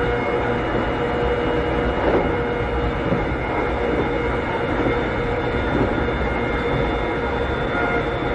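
Interior running sound of a Keikyu 600-series electric train car with Toyo Denki traction equipment, cruising at steady speed: a steady motor and gear whine over wheel and track rumble, with a few light rail-joint knocks.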